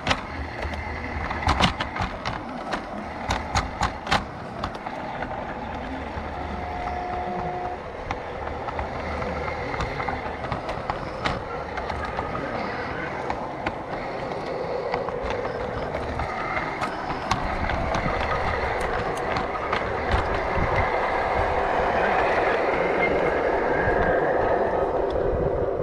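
G scale model train running on a garden railway track, with sharp clicks of the wheels over the track in the first few seconds and a steady running noise that grows louder in the last third.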